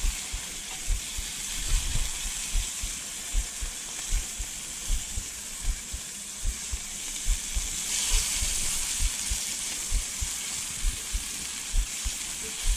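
Breaded walleye fillets sizzling steadily in hot olive oil in a frying pan, with irregular low thumps several times a second as a spatula lifts pieces out.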